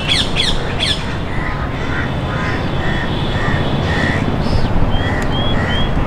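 Birds calling: a quick run of sharp, falling squawks at the start, then short calls repeated a few times a second over a steady low background noise.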